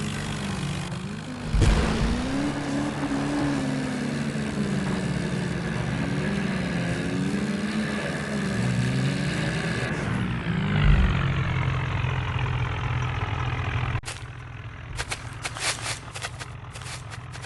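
HMT tractor's diesel engine running, its pitch rising and falling as it is revved up and down, with a heavy knock about a second and a half in and another about eleven seconds in. Near the end the engine settles to a steadier low note under a quick run of sharp clicks.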